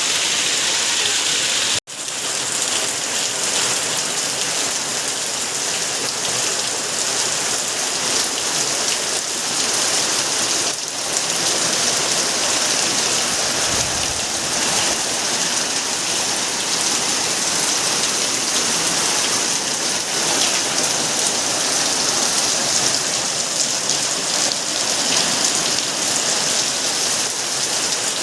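Heavy rain falling steadily, a dense even hiss of drops on surfaces; the sound drops out for an instant about two seconds in.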